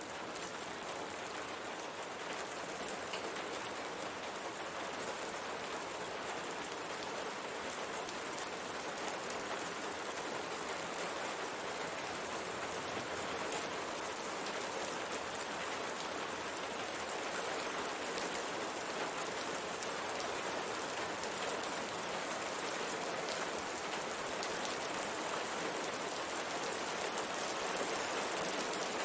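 Steady rain striking window glass: a dense hiss with many small, sharp drop ticks, growing a little louder toward the end.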